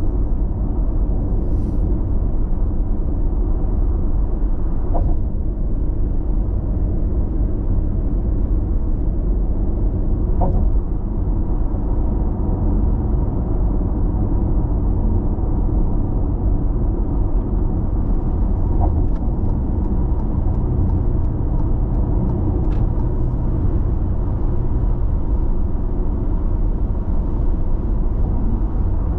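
Steady road and tyre rumble inside a car cabin cruising at constant speed on an expressway, with a few faint ticks.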